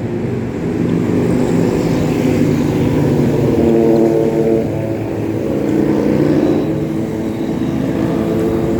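Motor vehicle engines running close by in highway traffic: a steady layered hum whose pitch shifts slowly as the vehicles move.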